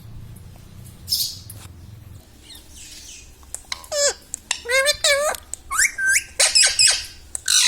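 Pet parrot calling: a single harsh squawk about a second in, then a fast run of chattering, chirping calls that swoop up and down in pitch, coming thicker towards the end.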